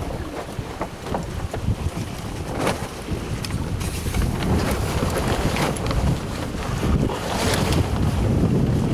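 Wind buffeting the microphone over water rushing and splashing along the hull of a sailing smack under way, gradually getting louder toward the end.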